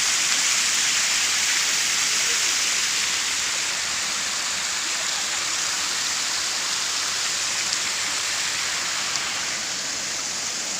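Rushing water: a steady, even rush with no break, easing off slightly towards the end.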